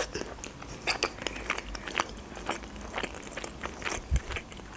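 A person chewing a mouthful of khinkali (Georgian dumpling) dipped in sauce: irregular sharp mouth clicks and smacks, the strongest about one and two seconds in.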